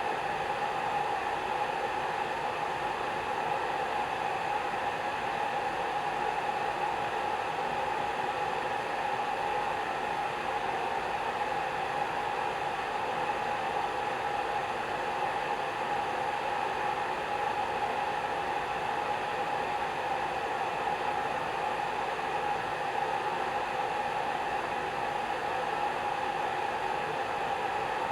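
Hair dryer running steadily: an even blowing hiss with a constant motor hum, no change in speed or pitch.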